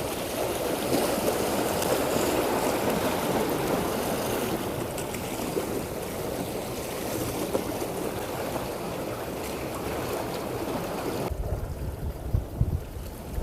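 Water rushing and splashing against the hull of a fishing boat, a steady wash. A couple of seconds before the end it cuts suddenly to gusts of wind buffeting the microphone.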